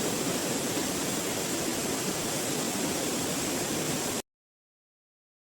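Steady rush of water from a small waterfall, cutting off abruptly about four seconds in.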